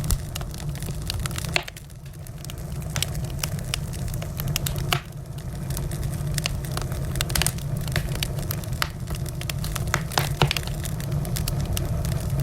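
Wood fire crackling, with many irregular sharp pops and snaps over a steady low rumble of the burning.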